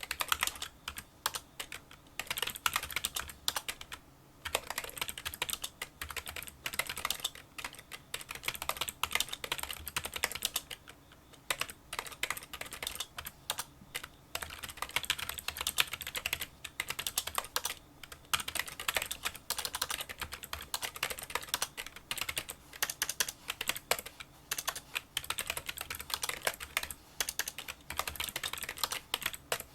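Touch-typing on a Kinesis Freestyle Solo split keyboard with membrane key switches: a dense, continuous stream of small, light key clicks, broken by short pauses about four and eleven seconds in.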